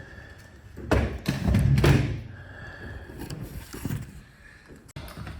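Thumps and knocks from handling gear inside an empty refrigerated truck box, the loudest about a second in and near two seconds, with shuffling between them.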